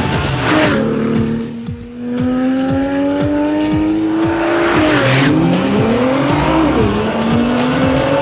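Sports car with an Akrapovič exhaust accelerating hard through the gears on a race track: the engine note climbs steadily, drops sharply at a gear change about five seconds in, then climbs again. Background music with a steady beat plays underneath.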